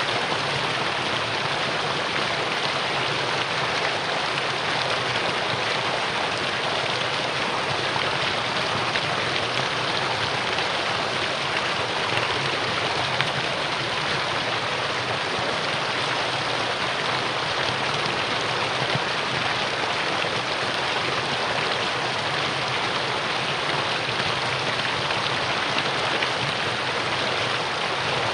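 Mountain stream flowing over rocks, a steady rushing and splashing of water with no change.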